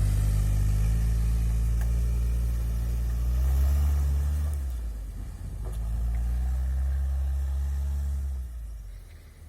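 The all-terrain vehicle's Toyota 1NZ-FE 1.5-litre four-cylinder petrol engine under load in snow: the engine note climbs for about four seconds, drops back, rises again and falls away near the end.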